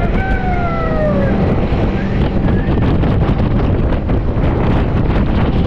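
Steady wind buffeting the microphone over a boat's running engine, with a short call falling in pitch in the first second.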